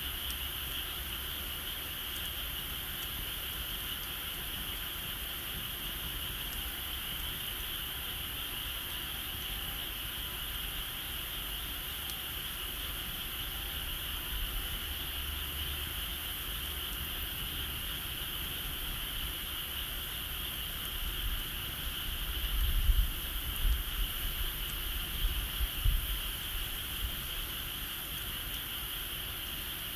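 Steady outdoor chorus of insects, a continuous high-pitched trilling with no break. Between about 22 and 26 seconds in, a few low rumbling bumps rise above it.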